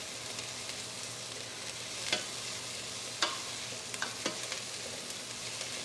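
Food frying in a pan: a steady sizzle, with a few sharp clicks a couple of seconds in.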